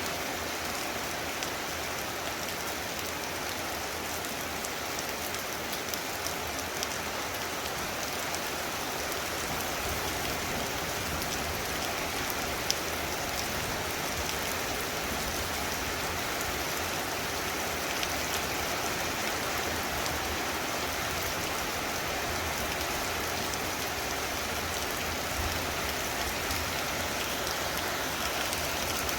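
Very heavy rain falling steadily, with scattered sharper drop hits.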